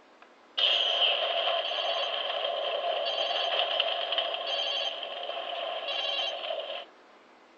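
Electronic sound effect played through the small built-in speaker of a USS Enterprise-B model: a steady buzzing tone with bursts of high chirping repeating about every second and a half. It starts about half a second in and cuts off suddenly near the end.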